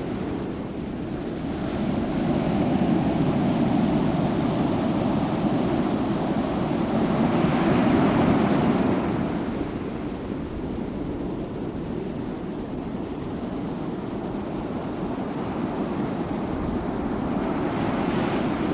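Sea waves breaking and washing in, a steady rush that swells loudest about eight seconds in and rises again near the end.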